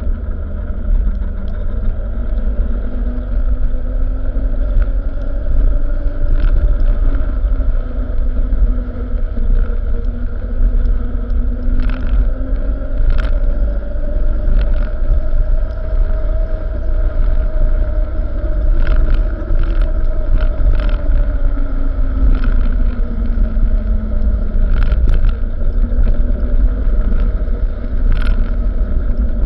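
Truck engine running with heavy road rumble, its pitch slowly rising and falling as engine speed changes, with occasional sharp clicks or rattles.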